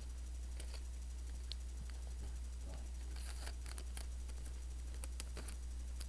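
Light, irregular clicks and crinkles of cardboard toilet paper rolls and adhesive tape being handled, over a steady low electrical hum.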